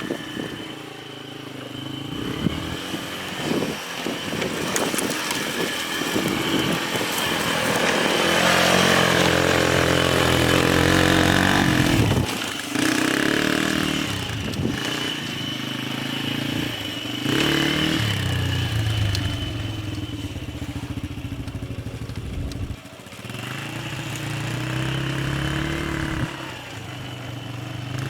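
1990 Polaris quad's engine revving up and down as it is ridden, its pitch climbing under throttle and dropping off again several times, with a short lull about twelve seconds in and another near twenty-three seconds.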